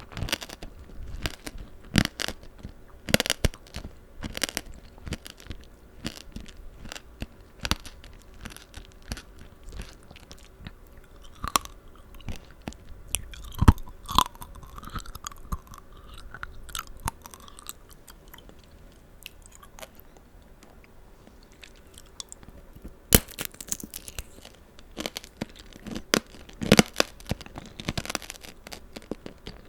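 Close-up chewing of tanghulu, the hardened sugar shell cracking and crunching between the teeth in irregular sharp crunches, with a quieter stretch of chewing past the middle.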